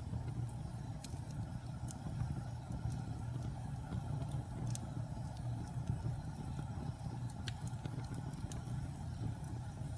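Wood fire burning in a fireplace: a steady low rumble of flame with scattered sharp crackles and pops.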